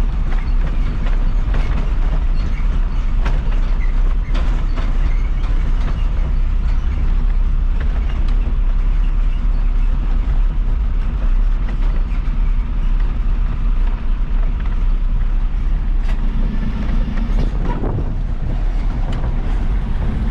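An Isuzu FRR90 truck on the move, heard from the driver's position: a steady, loud low diesel engine rumble with road noise and frequent small clicks and rattles from the cab. The engine note changes a few seconds before the end.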